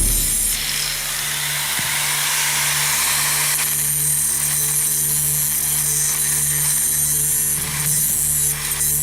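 Electric power tool running steadily: a constant motor hum under a continuous hiss, typical of grinding or sanding metal.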